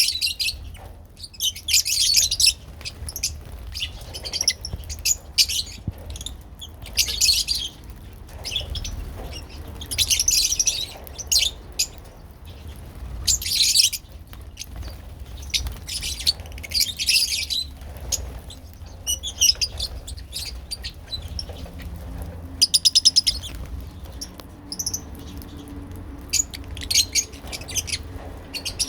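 A group of lovebirds chattering in shrill, rapid chirping bursts that come every second or two, over a faint low hum.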